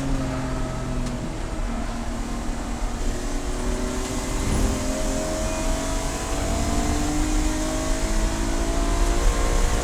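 Race car engine under power, its pitch dipping briefly about a second in and then climbing steadily as it accelerates, over a heavy low rumble.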